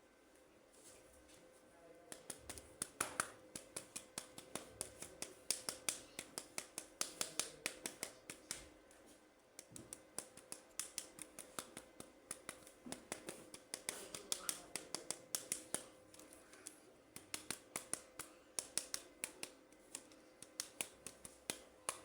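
Toy packaging being cut and handled: a rapid run of sharp snips and clicks, several a second, in bursts with short pauses.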